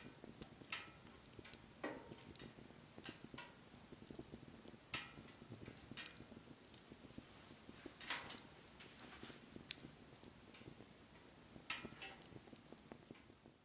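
Wood fire crackling: irregular sharp pops and snaps over a soft steady hiss, a few pops louder than the rest.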